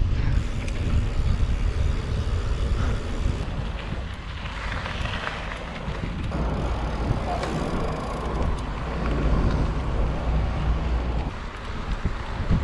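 Wind buffeting the microphone while riding a bicycle at speed: a steady low rumbling rush that eases a little about four seconds in and picks up again.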